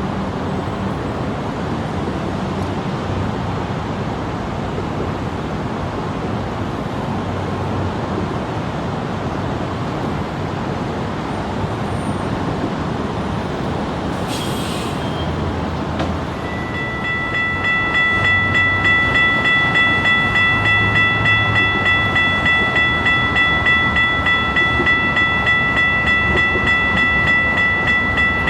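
A train rumbling along the tracks. About halfway through, a railroad crossing warning bell starts ringing at about two strikes a second and keeps ringing over the train noise.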